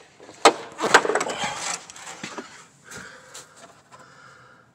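Hand tools knocking and scraping against engine parts: two sharp knocks about half a second apart, then a second of rattling and scraping, fading to fainter rubbing.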